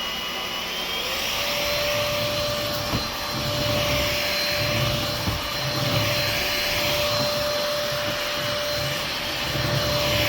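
Trucozie T350 cordless stick vacuum running. Its motor whine climbs and settles to a steady pitch about a second in. Under it a low rumble swells and fades every second or two as the floor brush is worked over a surface.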